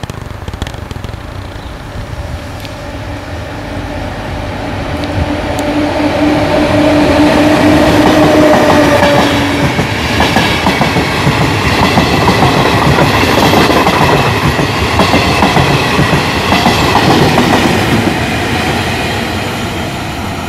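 Passenger train hauled by two E.464 electric locomotives, one at each end, passing through a station. It grows louder with a steady hum that stops about ten seconds in, then the coaches go by with the wheels clattering over the rail joints. It fades as the rear locomotive draws away.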